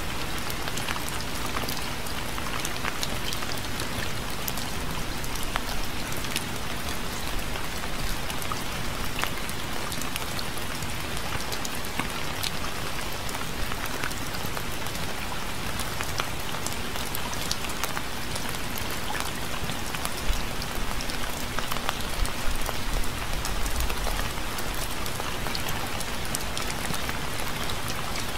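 Steady rain, with many separate drops heard hitting close by over an even hiss.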